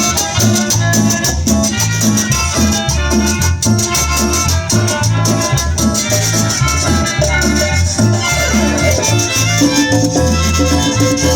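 A Salvadoran chanchona band playing live dance music, with a heavy pulsing bass and a steady beat.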